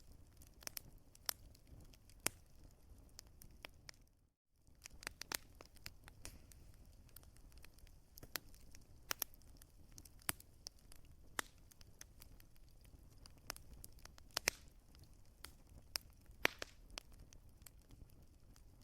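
Wood fire crackling, with irregular sharp pops over a low steady rumble. About four seconds in the sound cuts out completely for a moment, then resumes.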